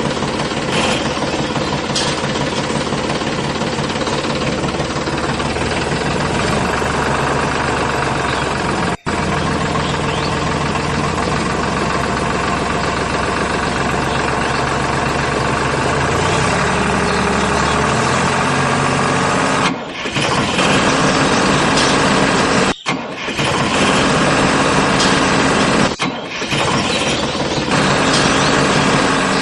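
A mini tractor's engine running steadily, broken by a few very short drop-outs.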